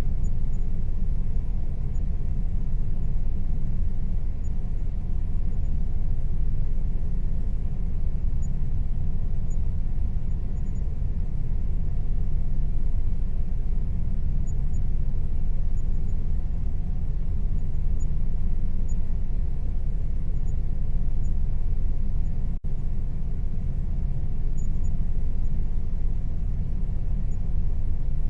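Air conditioner running with a steady low rumble and a faint, even hum above it; the sound cuts out for an instant about 22 seconds in.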